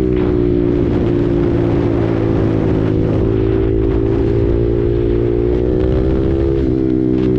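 KTM RC 390 single-cylinder engine breathing through an SC Project aftermarket exhaust, pulling at steady cruising revs that sag slightly and then rise a little near the end, with wind rushing over the microphone.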